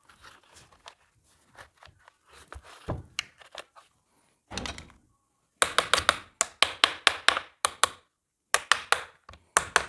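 Handling knocks on a rotary hammer drill's housing and parts during reassembly. About halfway through, rapid runs of sharp, evenly spaced clicking taps start, about four or five a second, pausing briefly once.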